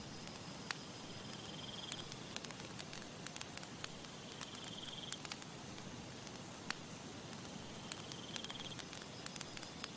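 Campfire crackling: irregular sharp pops and snaps over a soft steady hiss. A short, high, buzzy insect-like trill comes back about every three seconds.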